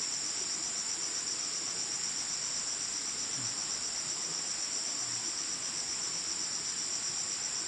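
Insects trilling steadily in a continuous high-pitched chorus.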